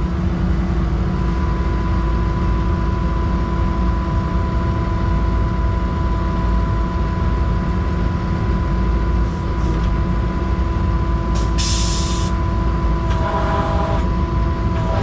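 Skid steer's diesel engine running steadily, with a constant whine over its rumble. About eleven and a half seconds in comes a short, sharp hiss of air, followed by a brief rattle.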